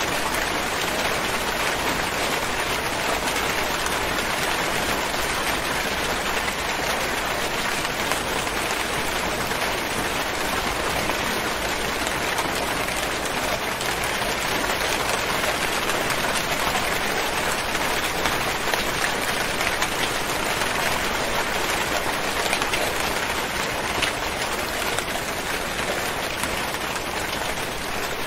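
Steady rainfall: an even hiss of many drops falling, holding constant throughout.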